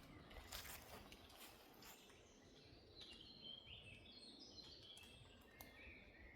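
Faint birdsong: a bird sings a run of short high notes that step down in pitch, starting about halfway through. It follows a few soft footsteps on the forest floor in the first couple of seconds.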